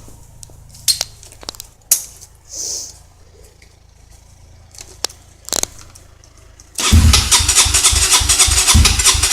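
Honda CRF dirt bike engine turning over on a cold start with the choke off, a loud rhythmic chugging of about four beats a second that begins about seven seconds in. Before that, a few scattered clicks and knocks.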